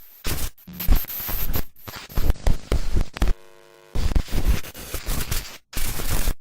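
Harsh static-like noise that keeps cutting in and out abruptly, with a brief quieter buzzing electronic tone about three and a half seconds in.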